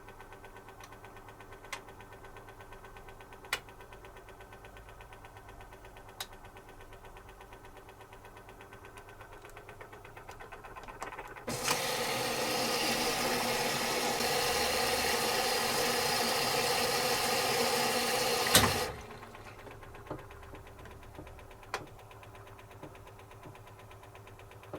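Zanussi FC1000 compact washing machine running a wash: a faint hum with a few sharp clicks, then about halfway in a loud, even rushing hiss for some seven seconds that cuts off abruptly with a click, after which the faint hum and clicks return.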